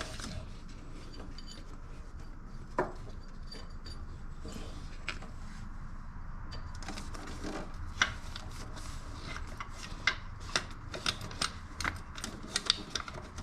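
Scattered light clicks and knocks from hands and metal working an alternator drive belt onto its pulleys in an engine bay, coming more often in the last few seconds.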